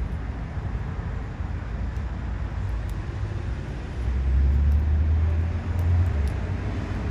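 Steady low rumble that swells for about two seconds in the middle, with faint scattered crackles from an ubame oak wood fire.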